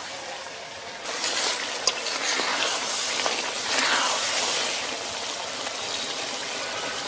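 Small-fish and pointed-gourd curry sizzling in oil in an iron karahi, louder from about a second in, with a few light scrapes of a steel spatula as it is stirred gently. The water has cooked off and the oil is separating, the sign the curry is done.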